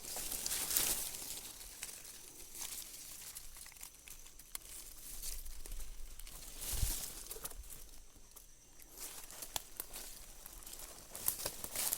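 Footsteps crunching through dry leaf litter, with vegetation rustling and snapping in irregular swells.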